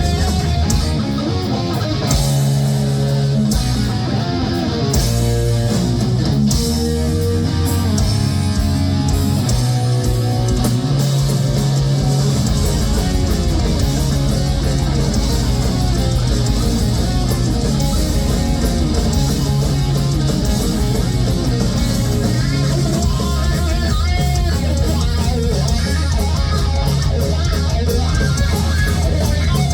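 Heavy metal band playing live: distorted electric guitar riffing over bass guitar and drums, with the low end filling out and the band playing harder from about twelve seconds in.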